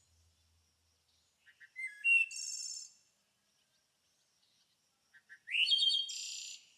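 A songbird singing two short phrases about three and a half seconds apart. Each phrase is a few quick rising whistled notes that run into a high buzzy trill.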